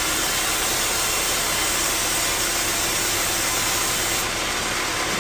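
Sawmill machinery running: a loud, steady noise with no clear rhythm, whose upper hiss drops away abruptly a little before the end.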